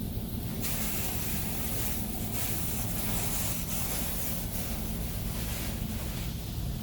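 Touchless car wash spray hitting the vehicle's body and windows, heard from inside the car over a steady low hum of machinery; the hiss of water begins about half a second in, pulses as the spray passes, and fades near the end.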